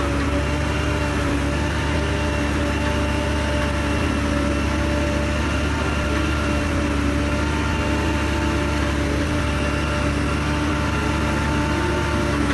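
Heavy diesel engine of an earth-moving machine running steadily at an even speed: a constant low drone with a steady whine of several pitched tones over it.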